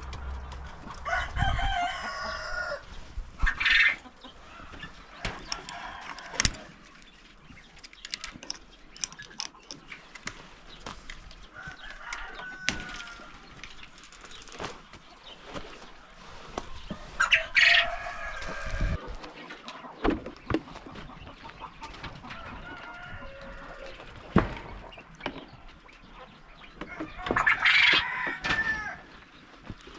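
Chickens clucking, with a rooster crowing three times, each crow about two seconds long, and scattered short clicks and knocks.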